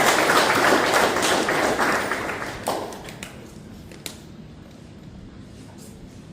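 Crowd applauding a car show award winner just announced, the clapping dying away about three seconds in, followed by a few scattered claps.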